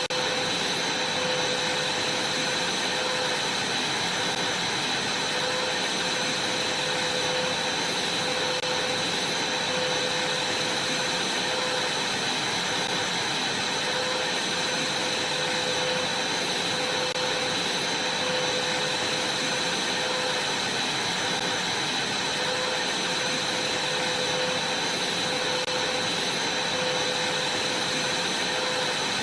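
Vacuum cleaner running steadily, a constant rushing of air with a steady whine over it.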